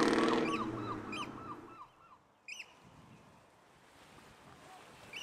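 A muscle car's engine running as it pulls away, fading out over the first two seconds, while birds call in a fast run of sharp repeated notes. A few single calls follow over faint wind and water noise.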